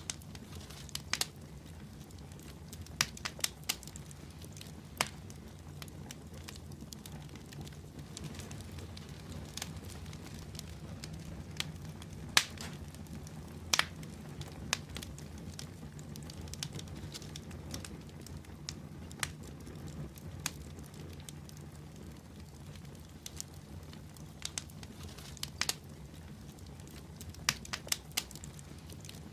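Wood fire in a fireplace burning with a steady low rumble of flame and irregular sharp crackles and pops, the loudest about twelve seconds in.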